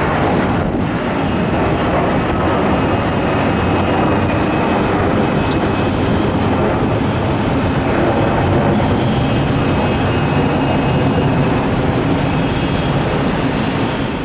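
Jet airliner engines running with a steady, loud roar and a faint high whine over it.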